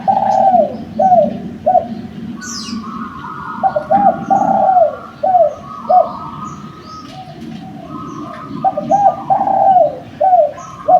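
Derkuku (island collared dove) cooing in repeated phrases of several short notes, a phrase about every four seconds, with a longer, higher coo running over each phrase. A small bird chirps once briefly between the first and second phrases.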